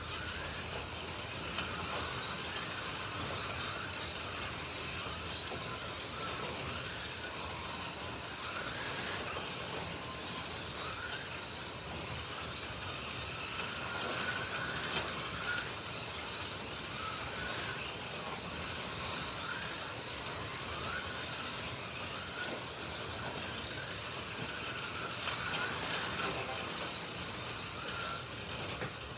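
Slot.it 1/32 slot cars, Alfa Romeo T33s and a McLaren M8D, racing on a slot-car track: the small electric motors whine, rising and falling in pitch as the cars accelerate and brake, over the steady rumble of the cars running in their slots, with scattered clicks.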